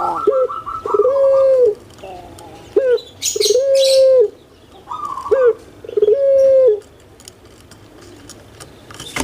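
Puter pelung (Barbary dove) cooing: three long, steady, low hooting notes, each led by a short clipped note, then a pause of about two seconds near the end.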